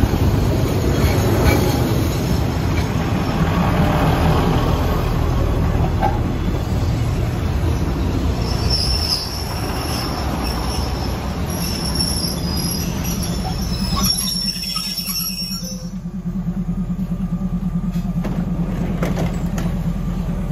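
SRT diesel railcar train rolling in along the platform, wheels rumbling, with high-pitched wheel and brake squeal from about nine seconds in as it slows. Near the end this gives way to a steady low throb of the idling diesel heard from inside the carriage.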